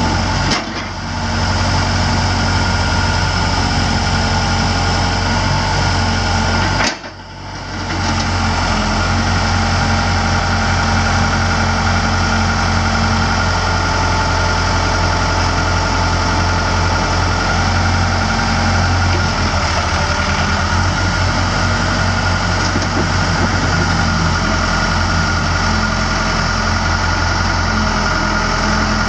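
Case 4-390 four-cylinder diesel engine of a Case 580L backhoe running steadily. The sound drops off briefly twice, about half a second and about seven seconds in.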